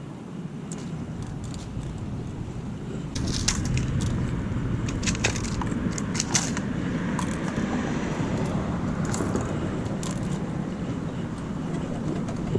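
Steady low rumble of car traffic, with scattered light clicks and clatters, most of them between about three and seven seconds in, as small bits of litter are picked up.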